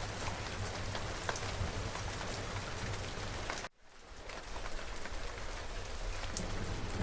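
Steady rain falling on a surface, with scattered individual drop ticks. About halfway through it cuts out suddenly and fades back in over a second or two, like a join in a looped recording.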